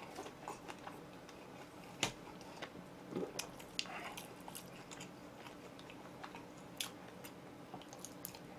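Faint chewing and biting of oven-roasted chicken: scattered small clicks and mouth sounds, with one sharper click about two seconds in.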